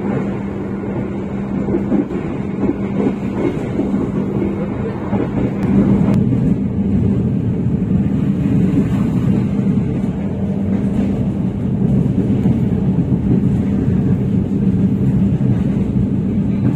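Running noise of the KA Argo Bromo Anggrek passenger train at speed, heard on board: a steady low rumble from the wheels on the track with a constant hum over it. The noise grows a little louder about six seconds in.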